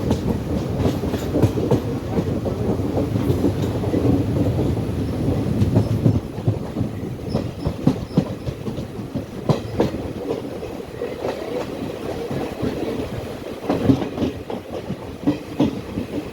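Passenger train running along the track, its wheels clacking over the rail joints over a steady low rumble. It becomes somewhat quieter about six seconds in.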